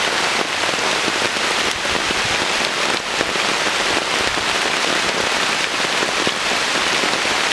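Heavy rain coming down hard and steadily on a tarp overhead: a dense, even hiss of countless drops.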